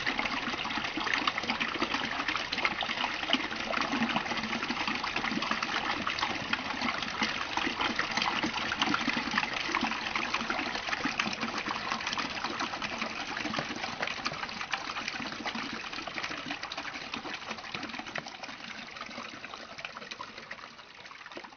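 Running water rushing steadily, fading out gradually over the last several seconds.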